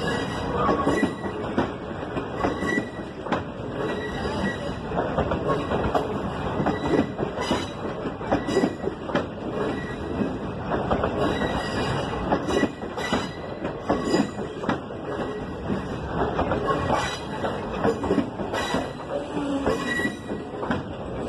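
Passenger train rolling into a station, its wheels knocking irregularly over rail joints amid continuous rolling noise.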